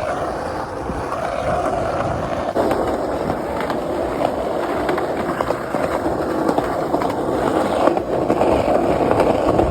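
Skateboard wheels rolling over pavement: a steady rumble with many small clicks.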